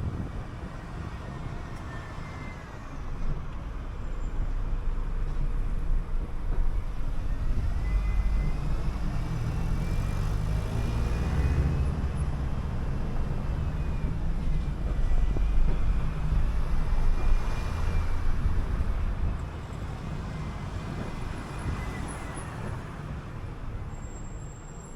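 City bus under way: a heavy engine rumble that grows louder as the bus pulls, with a drivetrain whine that rises and falls twice as it speeds up and slows, then the rumble drops off as it eases.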